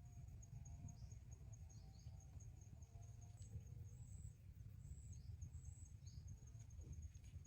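Faint forest ambience: a rapid, high pulsing trill like an insect's runs throughout, with a few short high chirps, over a low rumble.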